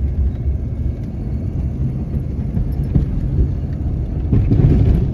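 Ford F-250 pickup driving, its engine and tyres giving a steady low rumble. About four seconds in, a louder rushing noise swells over it.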